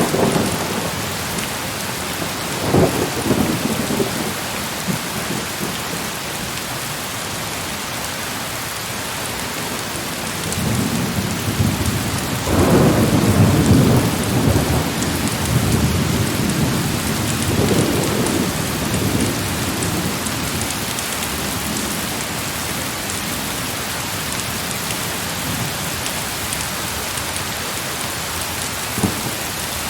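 Heavy rain falling steadily with rolls of thunder: a short rumble a few seconds in, a longer and louder roll in the middle, another soon after, and a brief one near the end.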